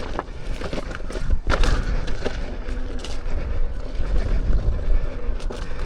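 Electric unicycle riding over a rough dirt trail: wind buffets the microphone in a constant low rumble, with irregular knocks and rattles as the wheel crosses bumps and loose ground.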